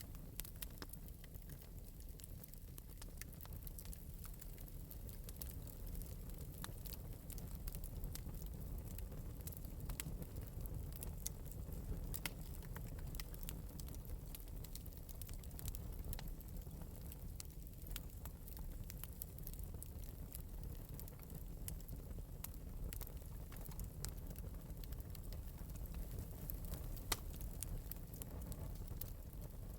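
Fire crackling in an open fireplace: frequent small sharp pops over a low steady rumble, with one louder pop near the end.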